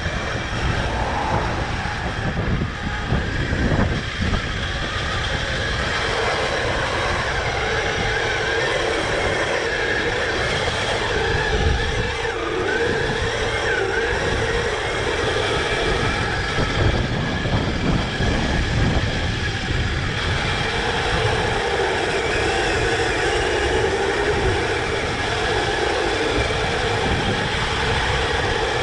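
Kyosho Blizzard 2.0 RC tracked snow vehicle driving, heard from on board: its electric drive motor whines steadily, wavering a little in pitch, over a continuous clatter and rumble from the tracks.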